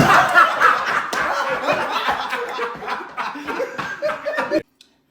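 People laughing hard in choppy bursts, cut off abruptly about four and a half seconds in.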